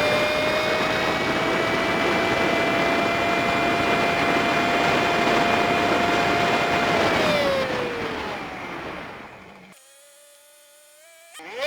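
Honda Super Cub 50's small single-cylinder four-stroke engine with wind noise, sped up so the engine is high-pitched: it holds a steady cruising note, then winds down as the bike slows, goes quiet for a moment about ten seconds in, and revs up again right at the end as it pulls away.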